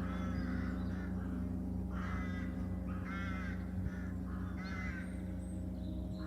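Crows cawing repeatedly, one short call after another, over the steady, sustained hum of a ringing gong.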